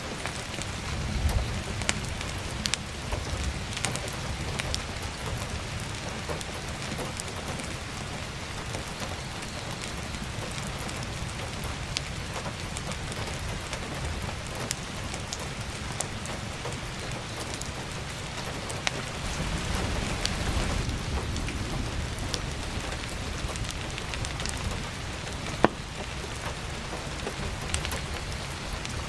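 Heavy rain pattering steadily on a roof and skylight, with scattered sharp crackles and pops from burning firewood, one louder pop near the end. A low rumble swells for a couple of seconds in the middle.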